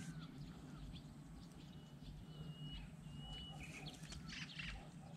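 Faint birds calling outdoors: two thin, held whistled notes near the middle and a few quick chirps a second later, over a steady low hum.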